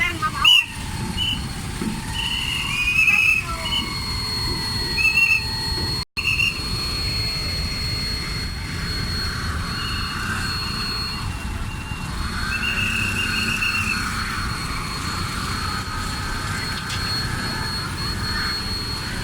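Steady low rumble of a car ferry under way, with high whistle-like tones coming and going above it, some held and some gliding in pitch, and the sound cutting out briefly about six seconds in.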